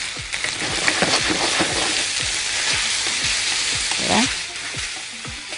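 Onions and testicles sizzling in hot oil in a pan, stirred with a wooden spoon that scrapes against the pan. The sizzling is steady and loud, with a brief voice-like sound about four seconds in.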